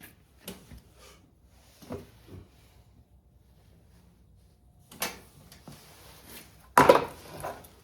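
Scattered knocks and clatters of hand tools and engine parts being handled, the loudest a short clatter about seven seconds in.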